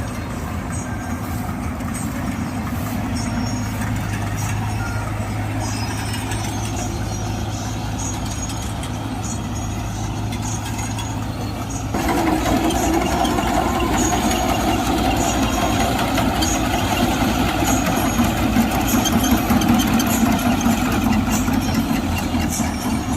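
Sonalika Worldtrac 60 RX tractor's diesel engine running steadily, growing louder about halfway through.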